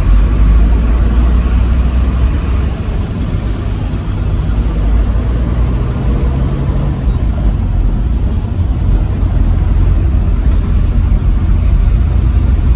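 Truck on the move: a steady, loud low rumble of engine and road noise.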